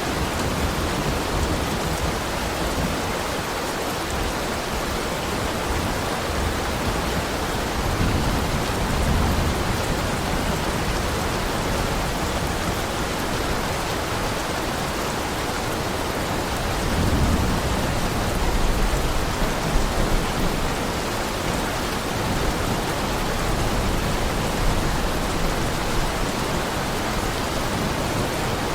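Heavy rain falling steadily, with low rumbles of thunder swelling up about eight seconds in and again around seventeen seconds.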